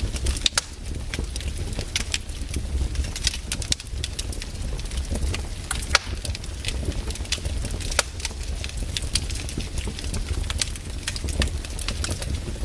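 Wood campfire burning, crackling with frequent sharp, irregular pops over a steady low rumble.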